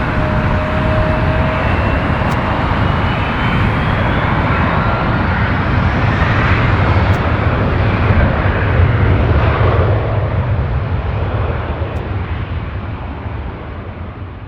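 Jet engines of a Boeing 777-300ER, its GE90 turbofans, heard during landing. The noise is loud and steady with a faint rising whine in the first few seconds, then fades steadily over the last few seconds.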